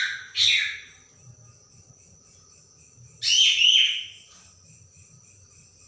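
Orange-headed thrush singing in short, sharp whistled phrases: one at the start and a second, longer one about three seconds in, with a faint steady high tone underneath.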